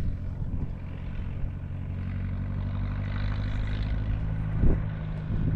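Old John Deere tractor engine running steadily as the tractor drives up. A brief knock sounds near the end.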